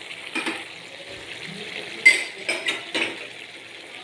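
Several sharp clinks and knocks of kitchen utensils, spoon and container or pan, loudest a couple of seconds in, over a faint steady sizzle of chicken cooking in the pan.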